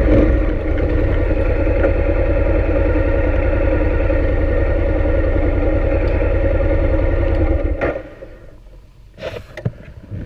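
Motorcycle engine running steadily at low speed, then cut off abruptly about eight seconds in as the bike stops. A few clicks and knocks of handling follow.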